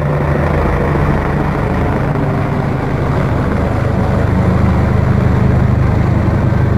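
Helicopter running with a steady low hum, growing a little louder about four seconds in.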